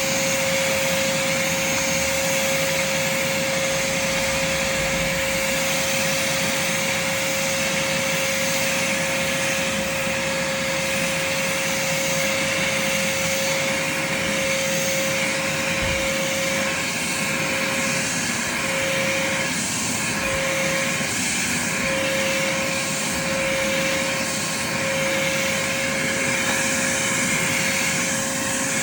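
Craftsman shop vac running steadily while vacuuming, its motor giving a constant high whine over a rush of air. The whine wavers and breaks up briefly in the second half.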